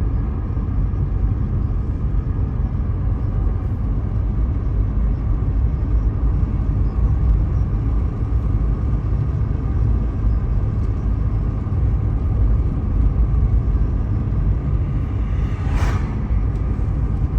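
Steady low rumble of road and engine noise inside a car's cabin while it drives along at a constant speed.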